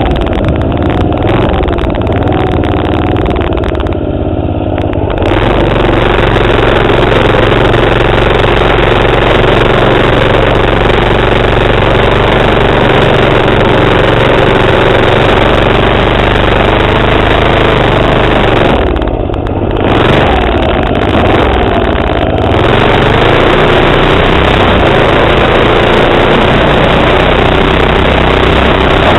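Minibike's 3.5 HP Tecumseh single-cylinder engine running under throttle, its pitch wavering up and down. The throttle eases off briefly about four seconds in and again about two-thirds of the way through.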